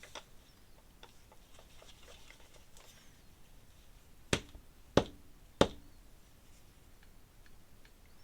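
Pens being handled on a desk: light scattered clicks and rattles, then three sharp taps a little over half a second apart, about four seconds in.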